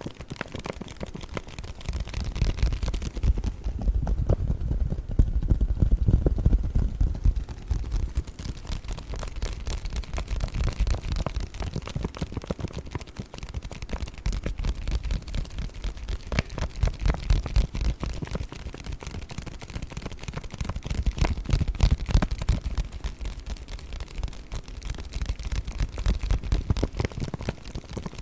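Paper bag crinkling and rustling close to the microphone: a dense, continuous crackle of small clicks with low thumps from handling.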